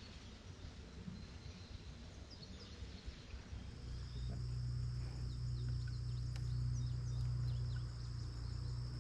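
Insects trilling steadily in the woods, a thin high note, with a few short faint bird chirps. From about four seconds in, the insect note becomes louder and steady over a low, even hum.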